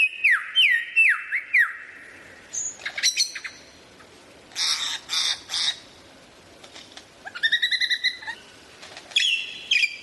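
A songbird singing varied phrases: clear down-slurred whistles at first, then scattered harsh, scratchy notes, a quick run of repeated notes near the end, and more down-slurred whistles to finish.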